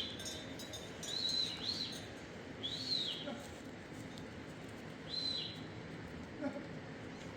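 A bird chirping: about five short, high calls that rise and fall, spaced irregularly over a steady background hiss.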